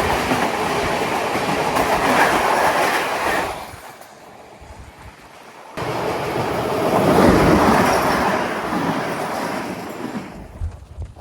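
Passenger train running along the line: steady wheel-and-rail noise with clattering over the rail joints. It drops quieter for about two seconds in the middle, then comes back abruptly and fades near the end.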